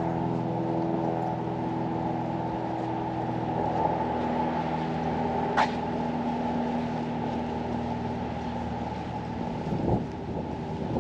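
An engine running with a steady hum that slowly fades away, with a single sharp click about halfway through.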